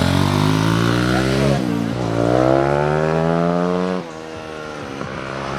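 A vehicle engine accelerating hard, revs climbing, with a gear change about one and a half seconds in, then climbing again before the throttle comes off and it fades, about four seconds in.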